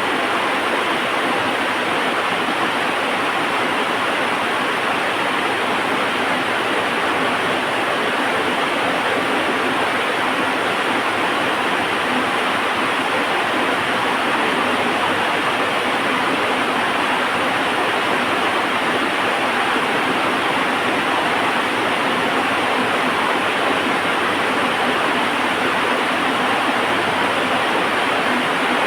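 Heavy rain falling in a steady, even downpour, a dense hiss that doesn't change.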